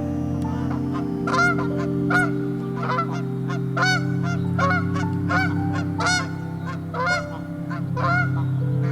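A goose honking over and over, about ten short calls spaced under a second apart, beginning about a second and a half in, over a steady low drone.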